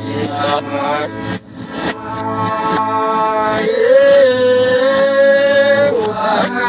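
A voice singing a song over instrumental accompaniment, holding one long note for about two seconds in the middle.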